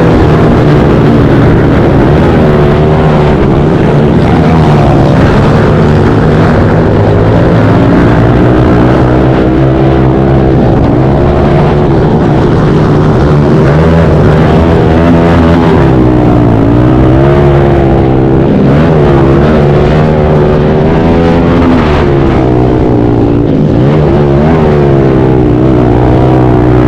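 Pit bike engine revving up and down over and over, with a steady lower drone underneath.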